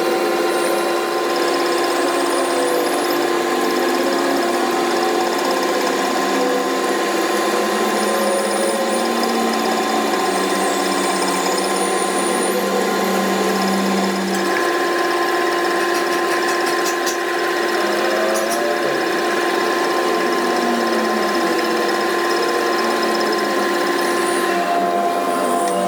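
Electric power tool motor running steadily, with a constant hum of several fixed tones.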